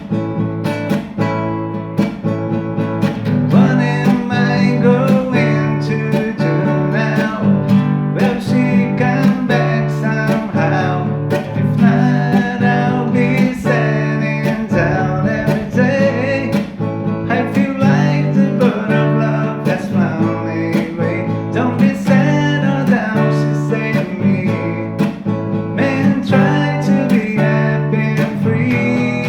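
Acoustic guitar music: plucked and strummed guitar over a steady bass line, with a melody above.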